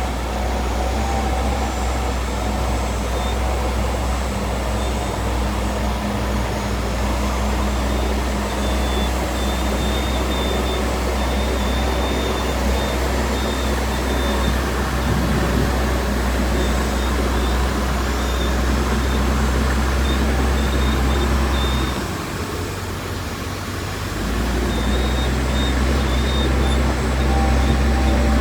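Heavy earthmoving machinery's diesel engine running steadily under work, with a deep rumble that eases off for a couple of seconds about three quarters of the way through before picking up again.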